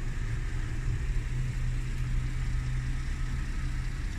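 A 2010 Buick Enclave's 3.6-litre V6 idling with a steady low hum.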